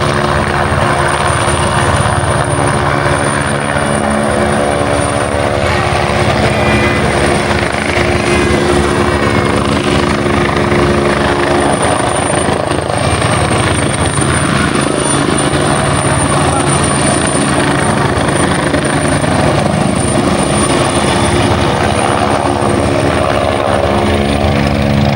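Helicopter running steadily: a continuous dense hum with a thin, steady high whine above it.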